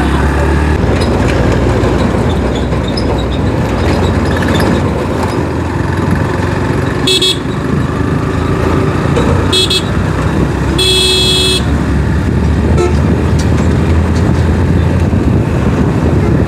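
Steady engine and wind rumble of a motorcycle on the move, with a vehicle horn honking three times about seven, nine and a half and eleven seconds in; the last honk lasts about half a second.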